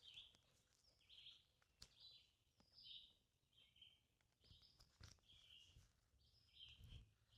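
Faint bird song: a run of short high chirps, about two a second, with a few faint ticks between them.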